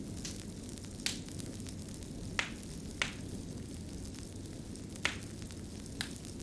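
Fire crackling: a steady low rumble with five sharp pops spaced irregularly through it.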